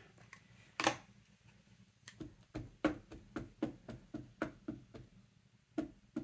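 Ink pad dabbed repeatedly onto a rubber stamp to ink it: one sharp click about a second in, then a run of light taps about four a second, and two more near the end.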